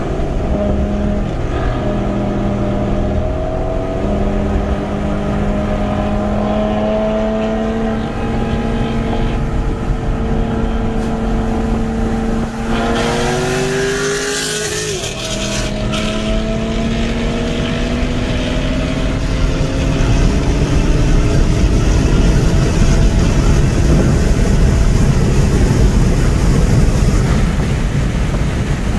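Car engine under hard acceleration, heard from inside the cabin: its pitch climbs slowly through a long gear, breaks and drops at an upshift about 14 seconds in, then climbs again. Road and wind noise grow louder in the last third.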